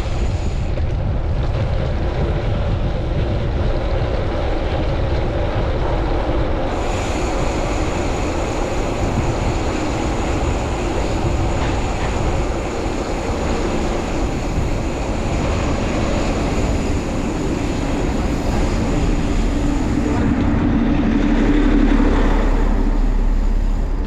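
Strong wind buffeting the microphone of a chest-mounted camera on a moving bicycle, a steady rumbling rush over city traffic. A louder, lower rumble swells near the end.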